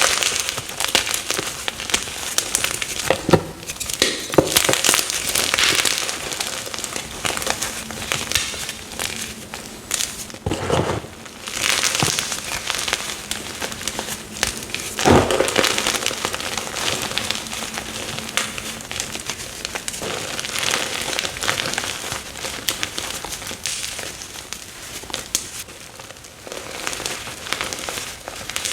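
Fresh blocks of plain chalk being crushed and crumbled: a continuous crisp crackling and crunching, with a few heavier crunches standing out.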